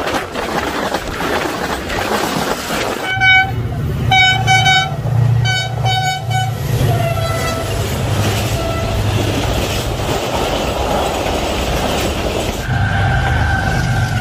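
A fast train passes with a steady rush of wheel and rail noise and a low locomotive rumble. From about three seconds in, its horn sounds in a quick run of short blasts. The horn pitch drops as the locomotive goes by, and another longer blast starts near the end.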